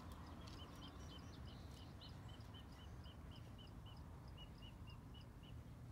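Faint, even series of short high chirps, about four a second, from a small bird, over a low outdoor background hum.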